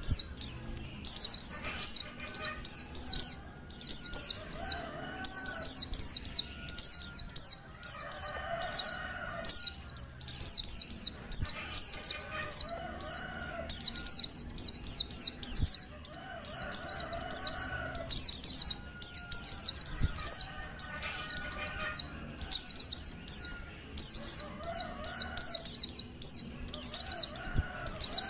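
Female white-eye (pleci) calling: quick bursts of high, thin, down-sweeping notes, repeated over and over with short gaps. Fainter lower-pitched sounds sit beneath.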